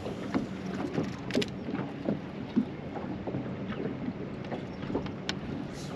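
Small waves lapping and splashing, with light wind on the microphone and scattered soft irregular knocks.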